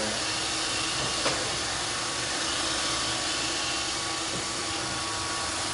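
Roomba 531 robot vacuum running, a steady whirring hiss of its vacuum motor and brushes with a faint steady whine in it. A single sharp click about a second in.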